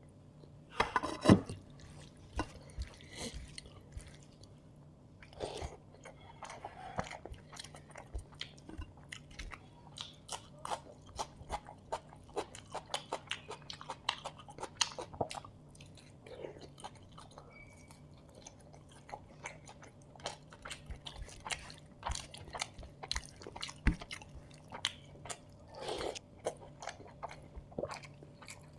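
Close-miked eating: a steady run of wet chewing and lip-smacking clicks with occasional crunchy bites, from a mouthful of chicken biryani. The loudest bite comes about a second in.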